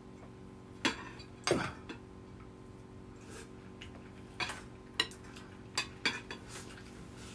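Eating utensils clicking and clinking against plates and bowls during a meal, as a few short, separate knocks spread over several seconds.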